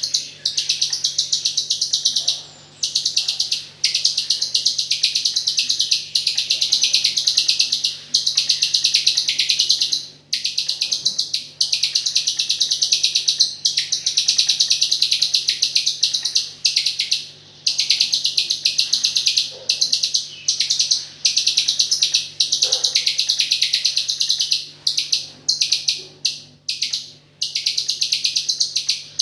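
A rio-rio songbird singing nonstop in long runs of fast, rattling high notes with only short breaks: the rapid-fire 'AK47' fill prized in Indonesian songbird training recordings.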